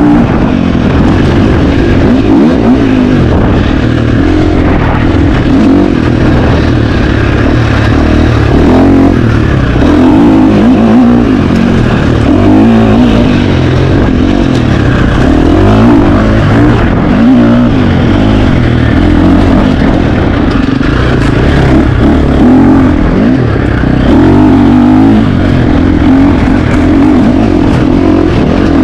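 KTM 350 XC-F four-stroke single-cylinder dirt bike engine, ridden hard off-road and revving up and down over and over as the throttle opens and closes.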